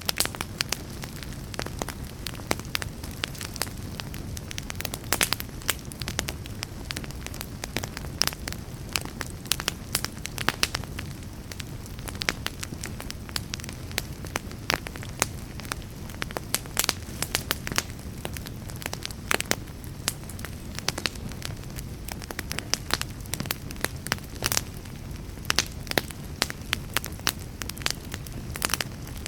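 Fire crackling steadily in a fireplace: a low rumble of flames under frequent, irregular sharp pops and snaps.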